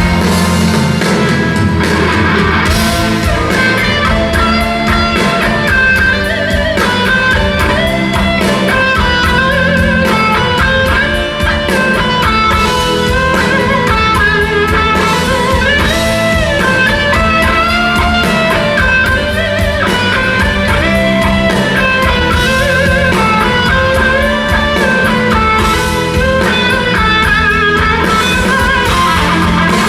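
Rock band playing live in an instrumental passage, an electric guitar carrying a bending melodic lead line over the band.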